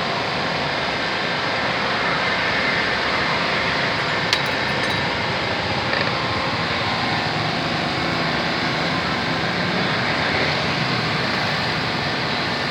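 Steady mechanical background noise, with one sharp click about four seconds in and a fainter one about two seconds later.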